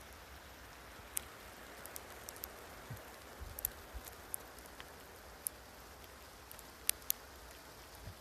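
Snowstorm ambience: a faint, steady hiss of falling precipitation with a low wind rumble and scattered sharp ticks.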